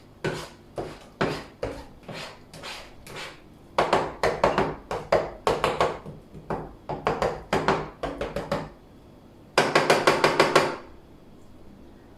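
Quick runs of sharp knocks from a kitchen utensil striking a pan or board, with a fast run of about eight strikes near the end before it goes quieter.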